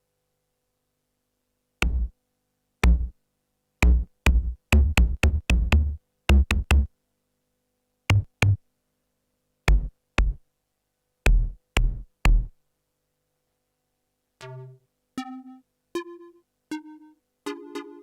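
TSynth, a 12-voice polyphonic synthesizer built on a Teensy 4.1, playing a percussive preset. Short, deep kick-drum-like hits are struck in an uneven rhythm. After a pause, a few short plucked pitched notes follow near the end.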